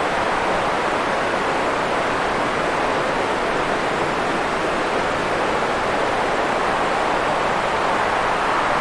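Steady synthetic noise, even and unchanging, fullest in the middle range and softer in the highs, like filtered white or pink noise played for sleep.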